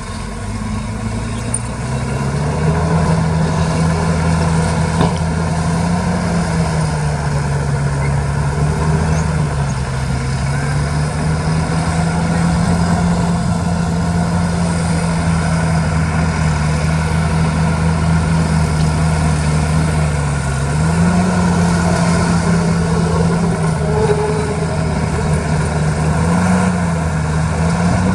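Diesel engine of a heavy earthmoving machine running steadily, getting louder and rising in pitch over the first two seconds, then holding with small rises and dips in engine speed.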